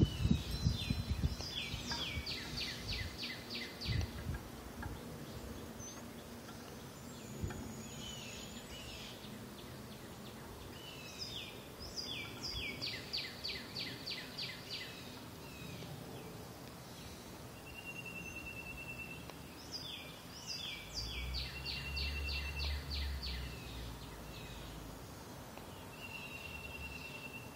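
A songbird sings the same short phrase three times, about every nine seconds: a quick run of repeated falling notes. Between phrases a bird gives a brief thin, steady high note. There are a few low knocks at the very start and a soft low rumble near the end.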